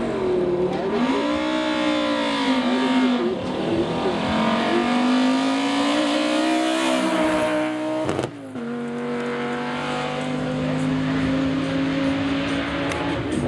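Historic racing car engine revving up and down a few times, then climbing in pitch to a peak about eight seconds in, dropping off sharply and running on at a steady pitch.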